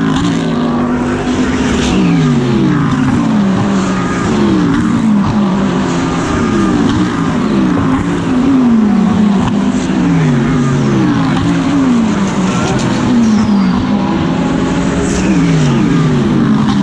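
GT3 race cars at full racing speed, one after another, their engine notes repeatedly sliding down in pitch every second or two as each car goes by.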